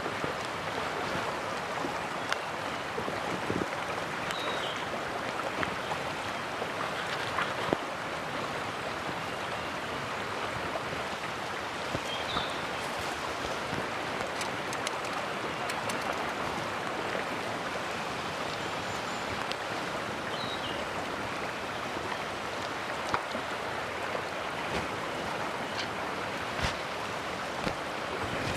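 A mountain stream rushing steadily. Scattered light clicks and knocks and a few brief high chirps sound over it.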